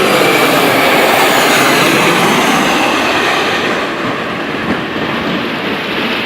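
Jet engines of a Bombardier CRJ700 (twin GE CF34 turbofans) running as the airliner lands and passes, a loud, steady roar. A high whine in it falls slowly in pitch over the first couple of seconds, and the roar eases slightly later on.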